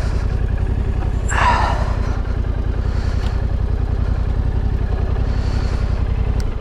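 Motorcycle engine running steadily with an even firing pulse, then cut off abruptly at the very end. A brief, higher-pitched sound rises over it about a second and a half in.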